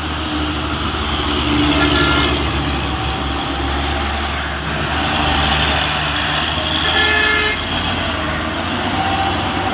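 Road traffic: a heavy engine running with a steady low drone amid road noise, and vehicle horns tooting briefly about two seconds and about seven seconds in.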